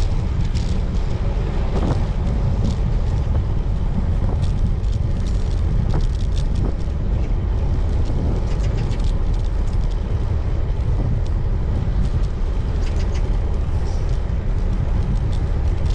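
Wind buffeting the microphone of a cyclist riding a road bike, a steady low rumble with faint clicks here and there.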